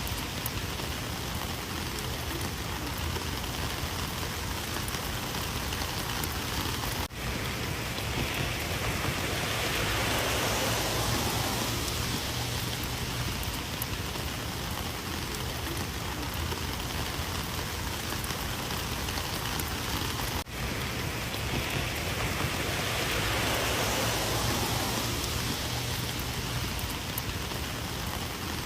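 Heavy rain falling steadily in a dense, even hiss, swelling and easing slowly, with two momentary dips about 7 and 20 seconds in.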